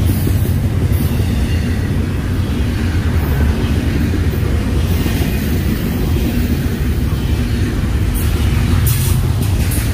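Florida East Coast Railway freight train rolling past: a steady low rumble of the passing cars, with a few sharp clicks near the end.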